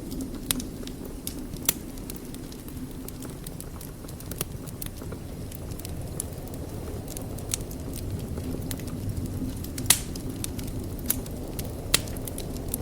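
Wood fire burning in a fireplace: a steady low rumble of flames with irregular sharp crackles and pops, the loudest pops about ten and twelve seconds in.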